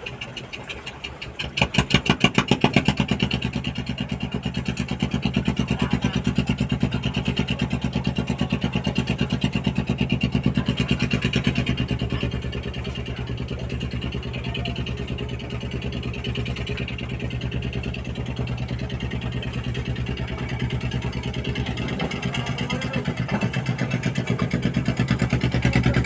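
An engine being restarted: it catches about a second and a half in and then runs steadily, settling a little lower after about twelve seconds.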